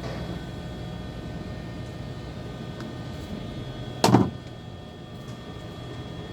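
A steady low mechanical hum with one sharp, loud knock about four seconds in that rings briefly.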